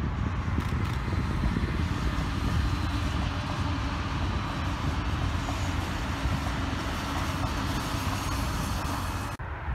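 Electric passenger train passing at speed: a steady rush of wheels on rails and air off the long train. Wind buffets the microphone underneath. The sound breaks off abruptly for a moment near the end.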